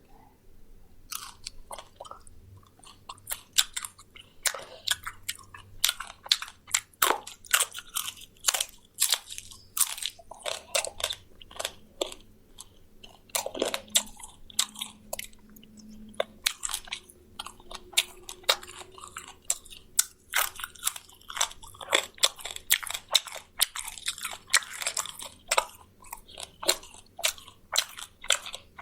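A person chewing and biting into crisp deep-fried quail close to the microphone: a dense, irregular run of crunches throughout.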